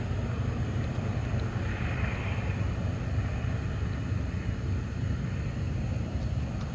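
Westbound BNSF double-stack container train passing as it labors upgrade: a steady low rumble from its diesel locomotives and rolling cars.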